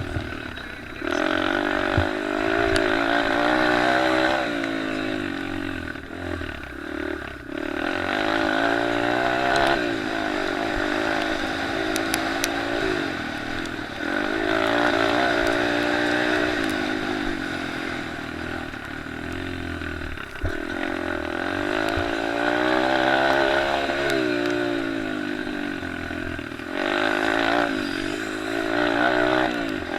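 Small off-road race bikes, pit bikes and youth motocross bikes, racing by, their engines revving up and falling off again and again as they accelerate and shift. Often several engines can be heard at once.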